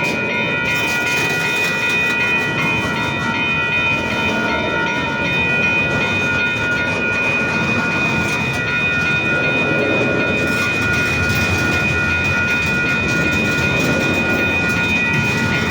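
Intermodal freight train starting to roll after a stop, its cars creaking and crunching as they move off slowly, with a steady high-pitched squeal over the rumble.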